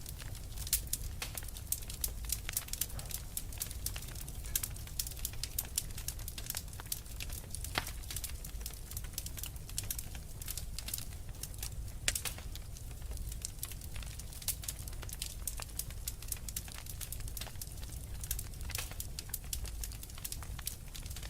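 Fire crackling steadily: irregular sharp pops and snaps, several a second, over a low steady rumble.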